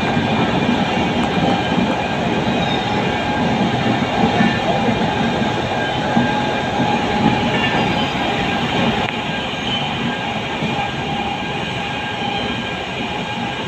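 Freight train hauled by twin WAG-9 three-phase electric locomotives passing close by: a loud, steady rumble of the train running on the rails, with a faint steady whine over it. It eases slightly near the end.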